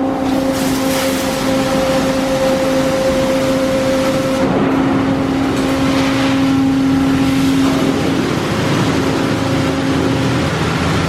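D&S automatic car wash machinery running: a steady motor hum under a loud rushing noise, which eases a little about eight seconds in.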